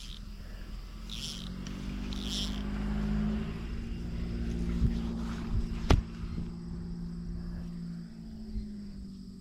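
An engine running steadily, growing louder over the first few seconds and then slowly fading, with two sharp clicks, the louder one about six seconds in.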